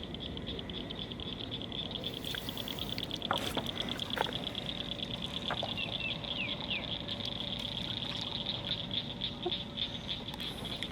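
Frogs calling: a continuous high, rapidly pulsing trill, with a few short bird chirps around the middle and several sharp knocks scattered through.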